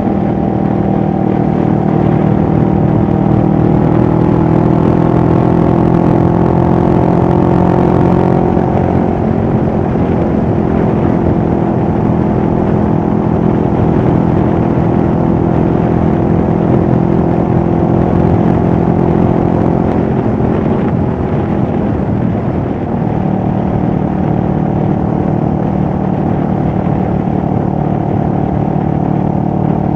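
CFMoto 650NK motorcycle's parallel-twin engine running steadily and loud, its pitch creeping up over the first eight seconds and shifting about nine seconds in, then dipping briefly about two-thirds of the way through before holding steady again.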